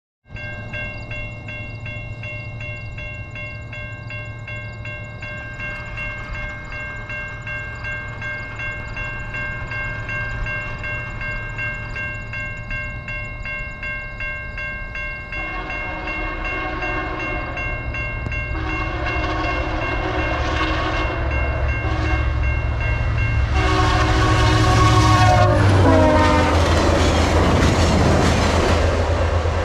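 Diesel locomotive approaching and passing a level crossing, sounding its horn in the grade-crossing pattern: two long blasts, a short one and a final long one whose pitch drops as it passes, followed by the rush of the train. Before the horn, a crossing warning bell rings steadily over the low drone of the approaching engine.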